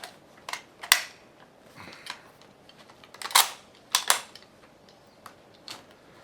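Scattered sharp clicks and knocks from handling gear, about seven over six seconds with quiet between; the loudest come about a second in and around three and a half seconds in.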